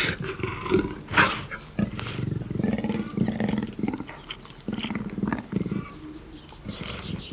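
A big cat roaring, a series of deep, rough calls one after another.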